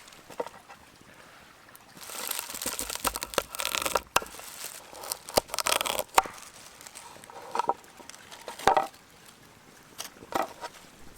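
Close handling noises: a stretch of rustling and crinkling about two seconds in, with scattered sharp clicks and knocks.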